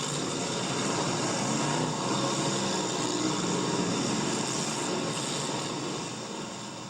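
Car engines running at a race track, a dense even noise that fades out near the end.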